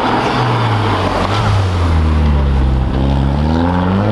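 Volkswagen Golf engine pulling away: its note falls and settles for the first few seconds, then about three seconds in it rises steadily as the car accelerates.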